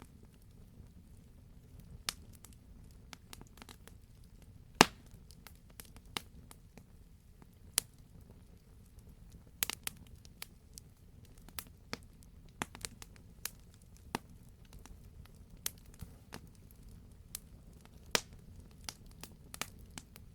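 Wood fire in a fireplace crackling, with irregular sharp pops from the burning logs, one louder pop about five seconds in, over a faint low rumble of the flames.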